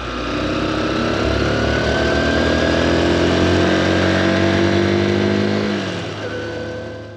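Honda XR150L single-cylinder dual-sport motorcycle engine running under throttle, its pitch rising slowly as it accelerates. It grows louder toward the middle, then fades away near the end.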